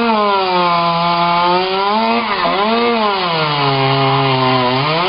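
Two-stroke chainsaw cutting into wood: the engine runs high, its pitch sinks and holds as the chain bites under load, lifts briefly about two seconds in, sinks lower again, and revs back up near the end.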